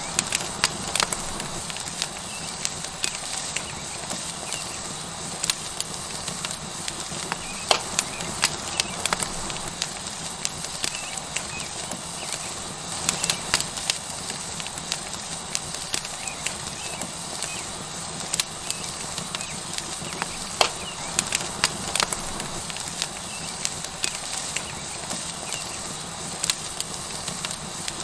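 Wood fire crackling with frequent sharp pops over a steady sizzle from a tomahawk steak searing on a hot rock.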